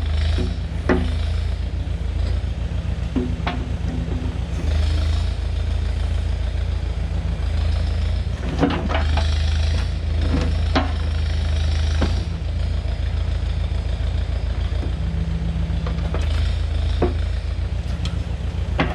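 Diesel engine of heavy digging equipment running steadily, with several sharp metallic clanks and a few short hisses.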